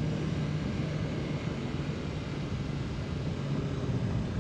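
BMW S1000RR's inline-four engine running steadily while the motorcycle cruises, with wind rushing over the microphone.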